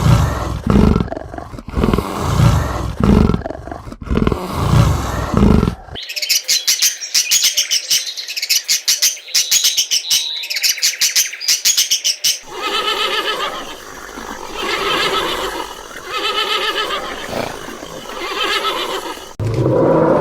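Animal calls in three spells: deep, pulsed growling roars for about six seconds, then rapid high-pitched chirping, then a run of repeated mid-pitched calls.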